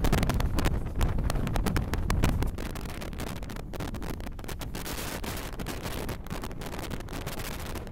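Wind buffeting the microphone and the low rumble of a moving passenger train. About two and a half seconds in the buffeting eases to a steadier rush with rapid clicking and clatter as a train passes on the next track.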